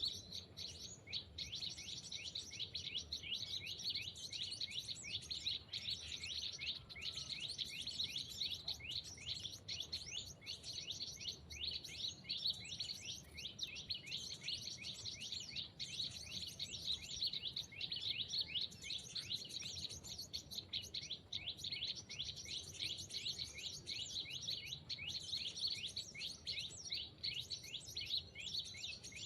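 Bird chirping in a rapid, unbroken stream of short high notes, many a second.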